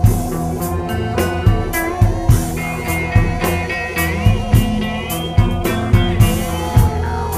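Band playing an instrumental blues-rock passage with a steady drum beat, with a lead line sliding up in pitch about four seconds in.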